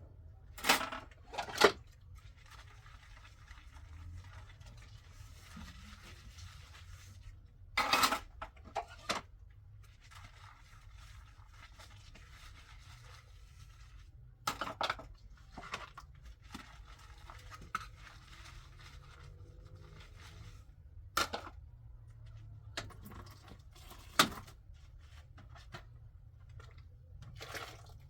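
About a dozen sharp clicks and knocks of hard objects being handled, spaced irregularly with short quiet gaps between them.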